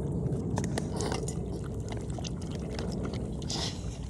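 A dog lapping water, with irregular wet splashing clicks.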